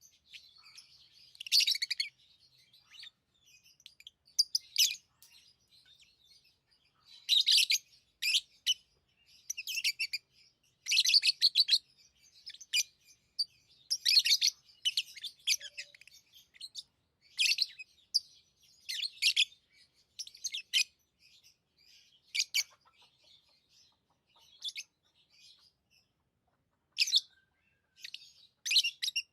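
Pet lovebirds chirping in short, high bursts, several chirps at a time, with brief pauses between the clusters.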